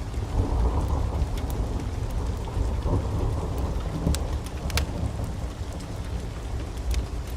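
Wood fire burning in a fireplace: scattered sharp crackles and pops over a deep, steady rumble that swells about half a second in.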